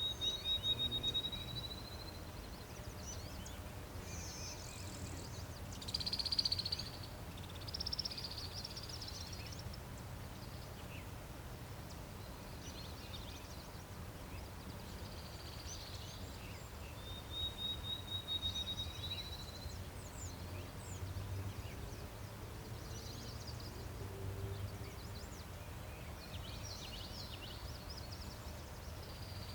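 Birds singing: a high, dry trill of rapid even notes, rising slightly over about two seconds, comes twice about seventeen seconds apart, with other short high calls in between, over a faint low background rumble.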